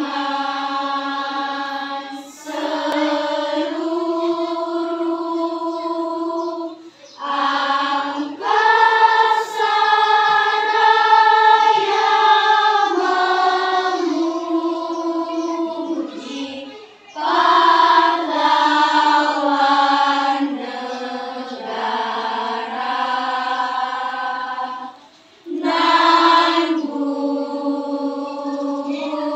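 Junior high school choir singing phrases of long held notes. Each phrase is separated by a short breath pause, four times in all.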